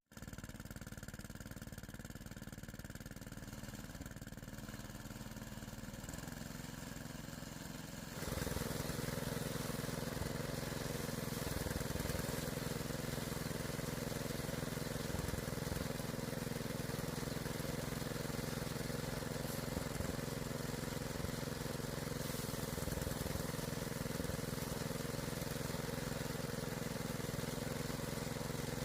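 An engine running steadily, getting louder about eight seconds in and then holding even.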